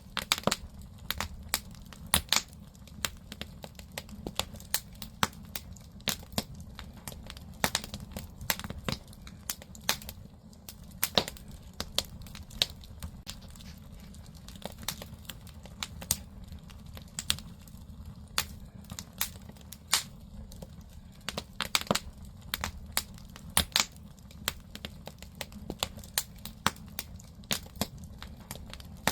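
Firewood burning in an agungi, the wood-fired firebox of a Korean ondol floor-heating system: irregular sharp crackles and pops, several a second, over a steady low rumble of the fire.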